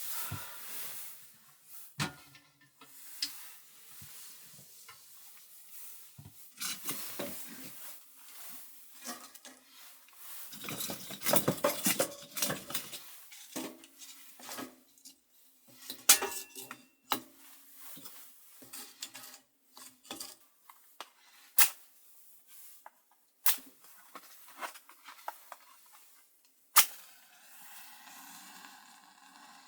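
Cookware and utensils being handled: clinks, knocks and clatter, busiest about ten to thirteen seconds in, with a few sharp single taps later on.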